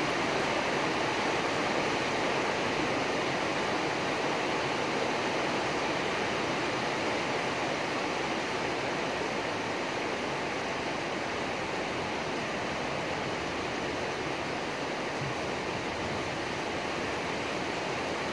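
Steady rain falling, an even hiss without breaks or thunderclaps, easing very slightly toward the end.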